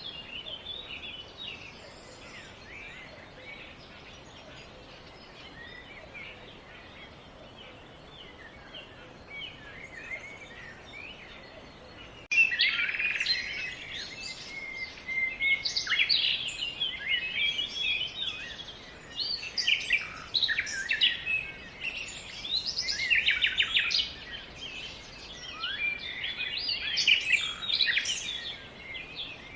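Birdsong: several birds chirping and warbling, faint at first, then suddenly much louder and busier a little before halfway through.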